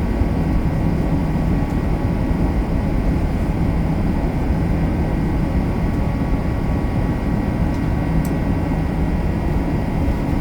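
Steady in-flight cabin noise of an Airbus A380-800 heard from a passenger seat: an even, unchanging rush of airflow and engine noise, heaviest in the low end, with a faint steady hum over it.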